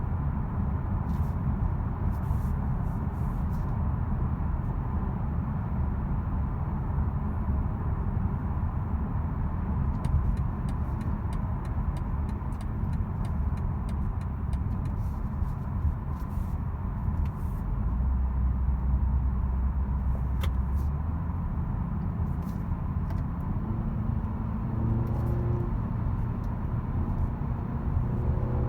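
A BMW 330i's 2.0-litre turbocharged four-cylinder and its tyres make a steady low rumble as the car drives, heard from inside the cabin. Near the end the engine note rises as the car accelerates.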